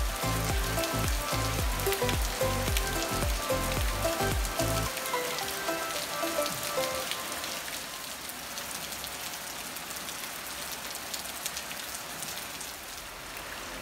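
Steady monsoon rain falling and pattering on wet ground and foliage, with a fine hiss of many drops. Background music with a regular bass pulse plays over it for the first five seconds or so, then fades out, leaving the rain alone.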